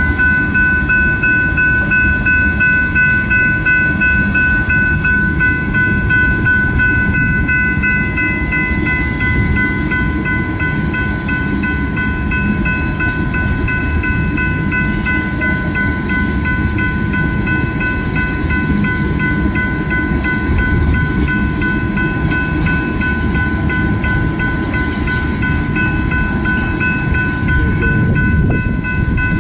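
Tank cars of a freight train rolling past with a steady low rumble and wheel clatter, while a grade-crossing bell rings over it.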